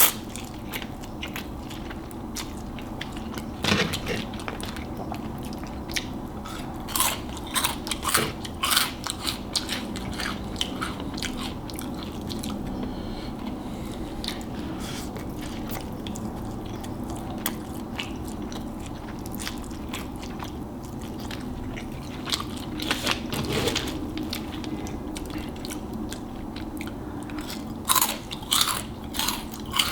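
Close-miked eating of Flamin' Hot Cheetos noodles: chewing with crisp crunches, the crunches coming in clusters with a quieter stretch of chewing in the middle.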